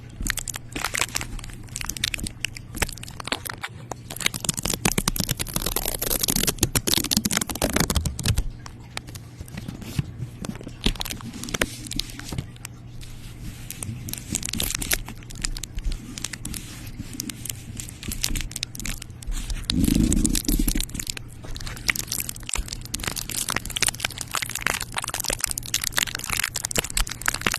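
Close-miked crinkling and crackling: a dense, continuous run of small clicks and crunches, with a louder, deeper crunch about twenty seconds in.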